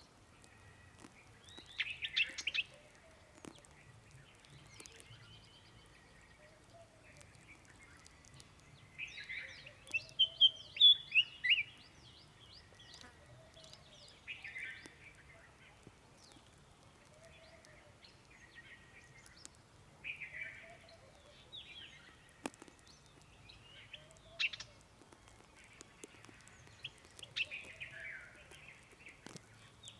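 Wild birds calling in a forest: several short bouts of high chirping notes, the loudest a quick string of sharp notes about ten seconds in, over a soft, low note repeated every couple of seconds.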